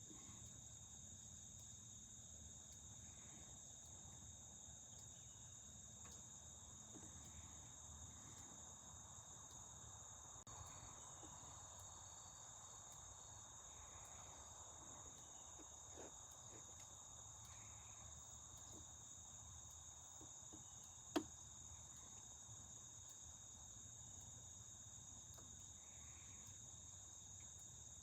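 Faint, steady outdoor insect chorus, a continuous high-pitched chirring with no break. A single sharp click sounds about three-quarters of the way through.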